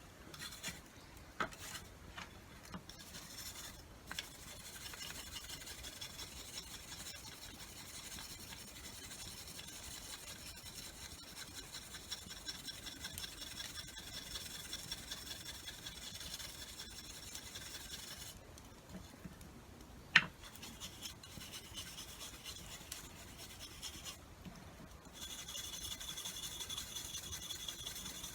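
Steady scraping of a tool blade being sharpened, in long runs that stop twice, with one sharp knock about twenty seconds in.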